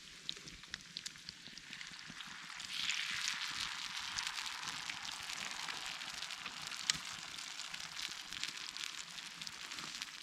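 Campfire crackling with sharp pops, then from about two and a half seconds in a steady sizzle of frying in a pan over the fire, with crackles still popping through it.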